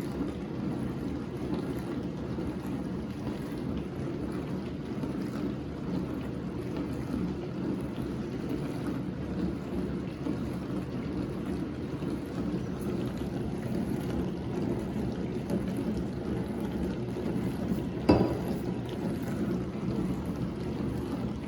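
Whirlpool WDF310PAAB4 dishwasher running in its diagnostic test cycle: a steady low hum of the pump with water churning inside the tub. A single sharp knock comes near the end.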